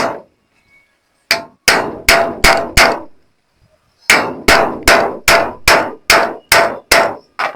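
Hammer tapping a 5-inch hex-head screw through an aluminium profile into a roof. The metallic strikes each ring briefly and come in two runs of roughly three a second: about five strikes, a pause, then about nine.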